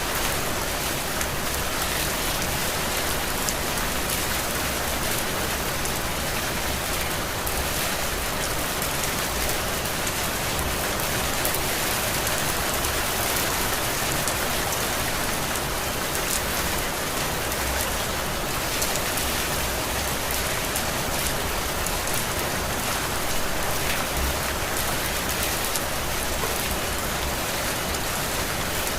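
Steady heavy rain falling and pattering on surfaces, a dense, even hiss with no pauses.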